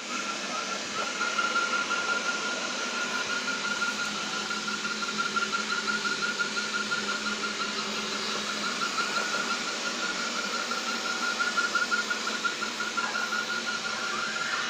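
Xiaomi vacuum cleaner running with a steady whir and a weird, strange sound on top: a fast, repeating high-pitched chirp that goes on without a break.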